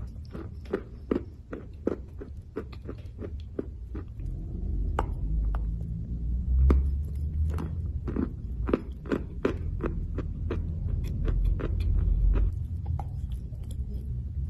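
Close-miked chewing of a lump of roasted clay: a steady run of sharp, dry crunches, a few a second. A low rumble sits underneath from about four seconds in.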